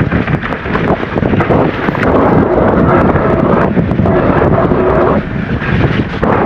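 Wind buffeting the camera microphone while riding an electric mountain bike down a trail, with the rush and rattle of the ride underneath.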